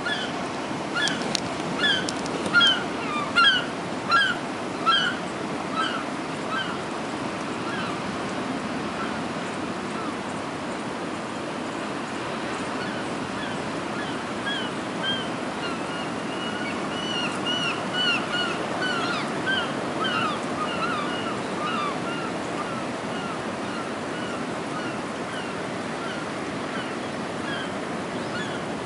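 Bird calls: a series of short, sharp, high notes about two a second, loudest in the first few seconds and returning more softly later, over a steady wash of surf.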